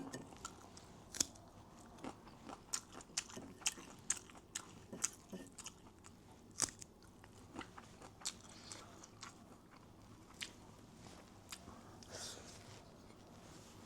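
A person chewing and biting crunchy food close to the microphone: irregular sharp crunches and mouth clicks, one or two a second, with a short slurp or hiss near the end.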